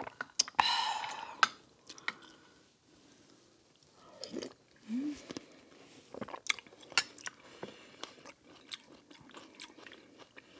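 Close-miked mukbang eating of juicy watermelon hwachae: a loud wet mouthful about half a second in, then chewing with scattered sharp mouth clicks and a short closed-mouth 'mm' hum about five seconds in.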